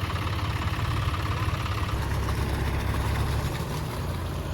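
Tractor engine running steadily with a low hum, easing off slightly near the end.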